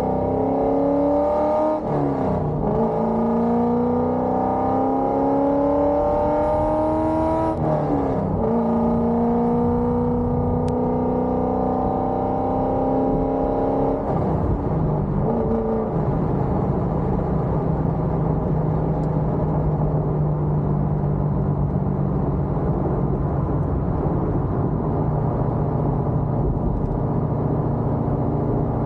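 Cammed C5 Corvette Z06's LS6 V8, with headers and Borla ATAK mufflers, accelerating through the gears. The engine note rises, drops at upshifts about 2, 8 and 14 seconds in, and then settles to a steady cruise.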